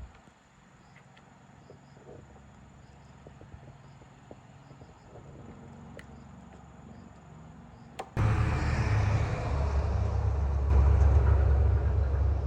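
Faint crickets chirping, then about eight seconds in a click and a motorbike engine suddenly running loudly with a low rumble, getting louder about three seconds later.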